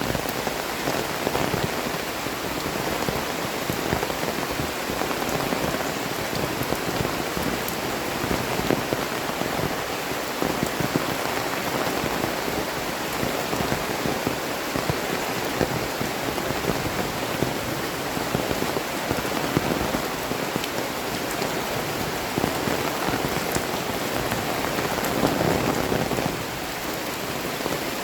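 Heavy tropical rain falling steadily, a dense sound of drops hitting the ground and surfaces.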